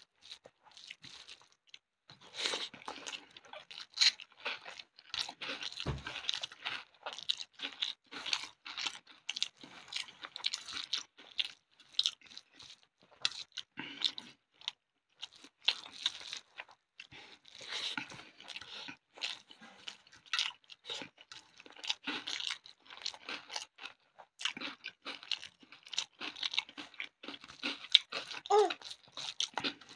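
Close-up chewing and crunching of a handful of rice with fried sides (egg bhajiya, bhaja, bari): a steady, irregular run of crunches.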